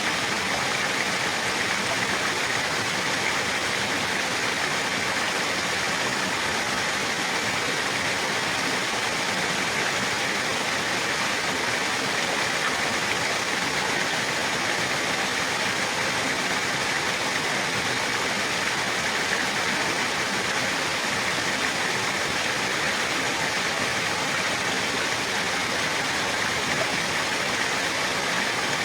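Running water, a steady, unbroken rushing with no change in level.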